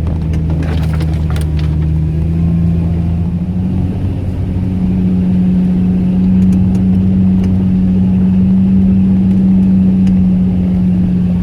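Off-road 4x4 engine pulling under load. Its revs step up about two seconds in and again around four and a half seconds, then hold steady and high, with a few brief clicks early on.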